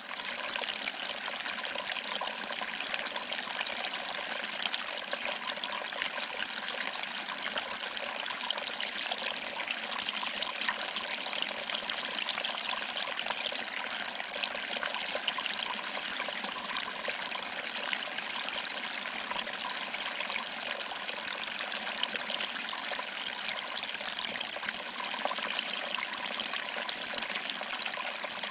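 Small waterfall, water trickling over rocks and splashing into a pool below: a steady, even rush of water with almost no low rumble.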